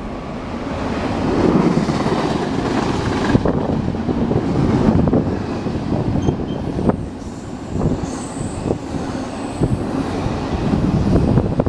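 Railroad cars rolling past at close range, with steel wheels clicking irregularly over rail joints through a steady rumble.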